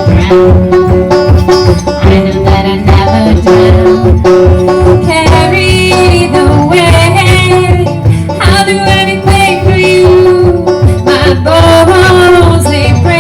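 Live folk-country music from an acoustic duo: a melody line over steady accompaniment.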